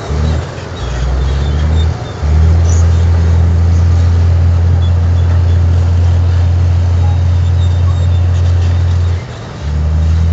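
Heavy diesel earthmoving machinery running with a deep, steady engine drone. The drone drops away briefly three times, about a second in, at about two seconds and near the end.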